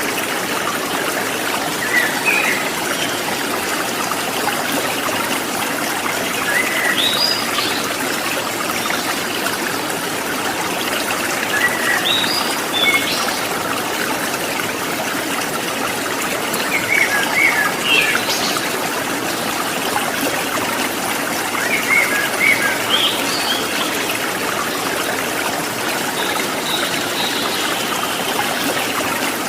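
Water trickling steadily, like a small stream, with short bursts of bird chirps recurring about every five seconds.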